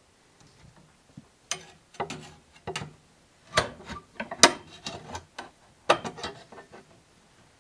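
Pipe cutter working on plumbing tubing to cut it to length: a series of sharp, irregularly spaced clicks and snaps, the loudest about four and a half seconds in.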